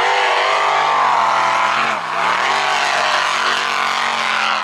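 Racing boat engine running at high revs, a steady tone whose pitch dips briefly about two seconds in, then climbs back and holds.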